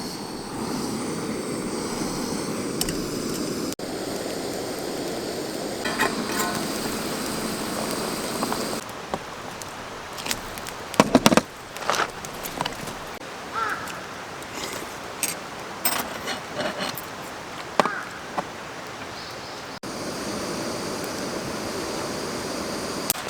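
Steady rushing of a mountain stream, broken by edits. In a quieter stretch in the middle come scattered sharp clicks and knocks, a cluster of the loudest about eleven seconds in.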